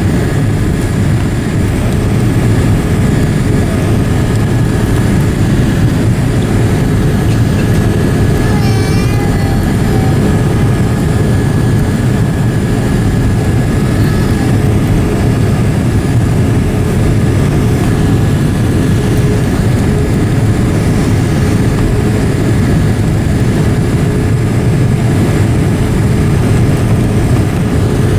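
Boeing 787-8 cabin noise in flight on approach: a loud, even low rumble of engines and airflow with steady faint whining tones on top. A brief warbling chirp sounds about nine seconds in.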